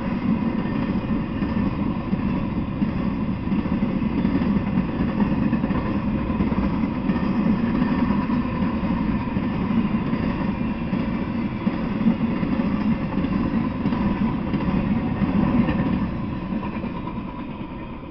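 Intermodal freight train's container well cars rolling past on the rails, a steady low rumble that fades away near the end as the last car clears.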